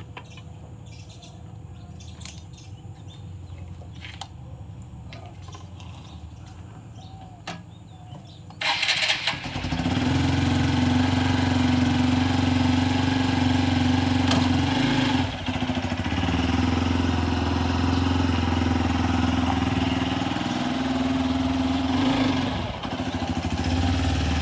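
Hero Xpulse 200 motorcycle's single-cylinder engine starting suddenly about nine seconds in, after a faint low hum with a few clicks, then running steadily with two brief dips in the engine note.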